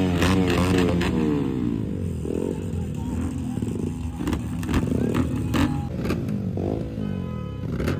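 Motorcycle engines being revved, their pitch rising and falling, with sharp cracks scattered through.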